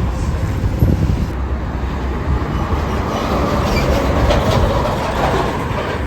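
A large vehicle going past with a steady low rumble that swells for a couple of seconds in the middle.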